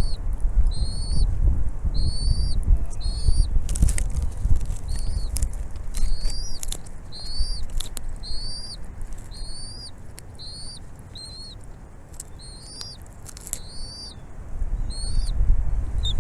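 Bald eagle calling: a long series of thin, high piping notes, each rising then dropping, about one a second. A low wind rumble on the microphone is heavier at the start and near the end.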